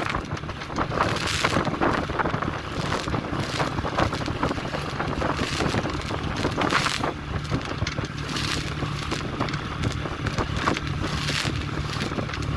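A 3.5 hp Tohatsu outboard motor running steadily at part throttle, a low even hum, while gusts of wind buffet the microphone in repeated rushes every second or two.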